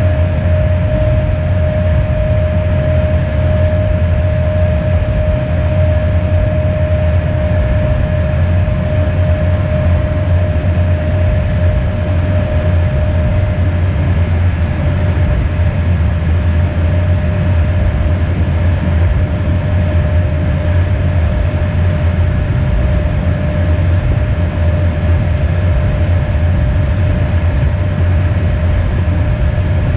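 Steady cockpit noise of an Embraer Phenom business jet in flight: a loud, even low rumble of airflow and engines with a steady mid-pitched whine over it.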